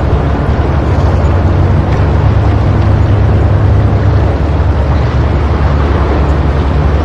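Sea surf washing against rocks, a loud, steady deep rumble with a hiss on top.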